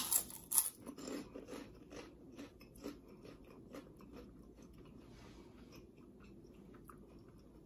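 Close-up crunchy chewing of a puffed, fried wheat-flour snack (frituras de harina de trigo). The crisp crunches come thick and loud for the first few seconds, then fade to quieter, steadier chewing.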